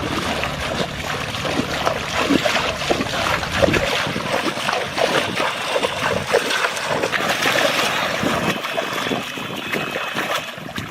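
Water splashing and sloshing, a steady run of many small, irregular splashes.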